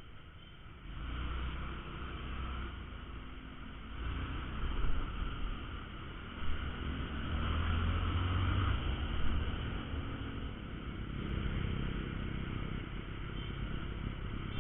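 Honda Verza 150 motorcycle's single-cylinder engine running under way in traffic, with road and wind noise on the helmet microphone. The engine gets louder about a second in and again a few seconds later, as if opening up.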